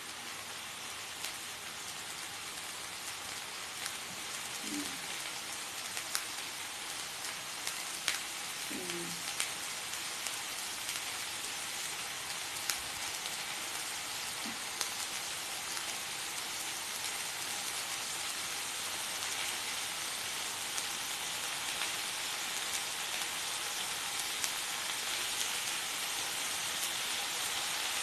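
Pork belly and pork sausages sizzling in a hot non-stick pan: a steady frying hiss with scattered sharp pops of spattering fat, growing slightly louder toward the end.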